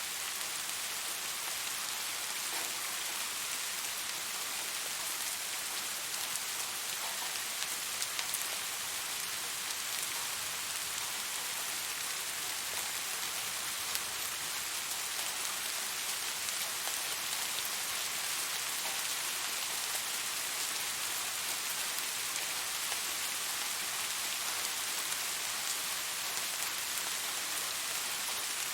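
Steady rainfall, an even hiss with occasional single drops ticking out.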